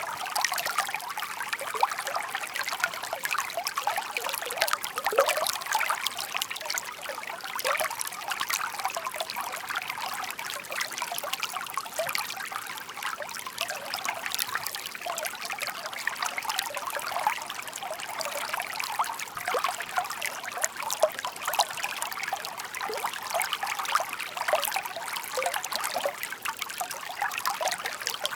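Shallow stream babbling and trickling over stones, a steady murmur of water dense with small quick splashes and gurgles.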